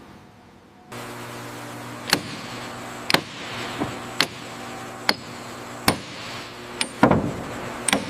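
Sharp knocks, roughly one a second, over a steady machinery hum that starts about a second in.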